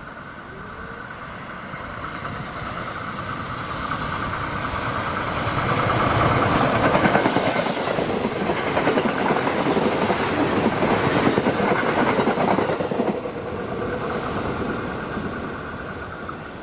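Tokyo Metro 13000 series electric commuter train passing at speed, its wheels running over the rails: it grows louder for about six seconds, stays loud while the cars go by, then fades as the train moves away.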